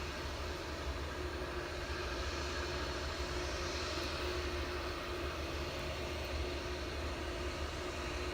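Boeing 787-8 Dreamliner jet noise: a steady rush of engine and airflow noise over a low rumble, with a constant hum.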